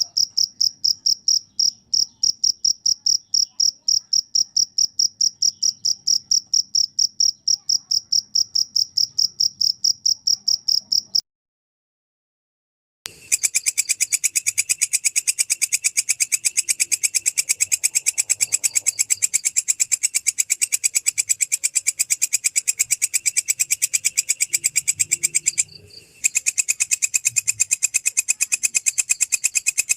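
A cricket chirping in fast, even pulses on one pure high tone, stopping about eleven seconds in. After a two-second silence a different insect, a belalang kecek katydid, takes up a buzzier pulsed call with a lower band beneath it, breaking off briefly near the end.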